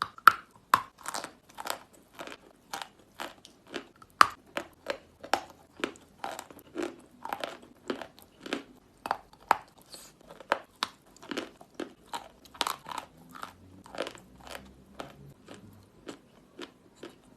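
Natural chalk paste being bitten and chewed close to the microphone: a steady run of crisp crunches, about three a second. The loudest crunches come in the first second and again about four seconds in.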